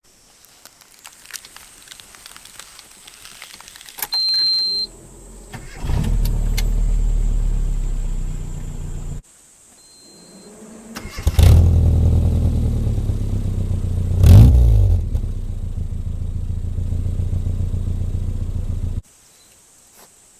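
Classic Mini's four-cylinder engine started twice. Each time a short high beep comes first, then the engine catches and idles steadily. The second run has one quick rev up and back down, and each run cuts off abruptly.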